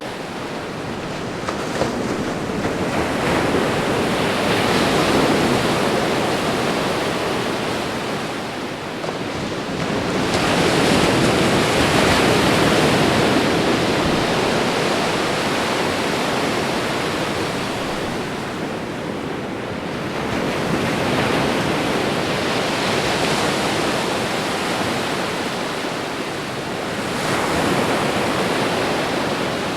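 Ocean waves breaking on a shore, a continuous rushing wash that swells and eases in slow surges every several seconds.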